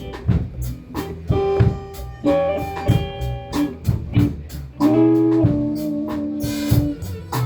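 Instrumental blues intro: guitar playing single held notes and short phrases over a drum kit keeping a steady beat.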